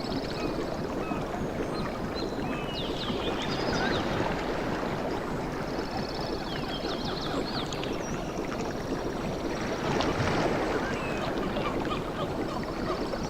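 Waves washing on a tropical beach in a steady rush that swells about four seconds in and again about ten seconds in. Birds chirp above the surf, with a high trill about six seconds in.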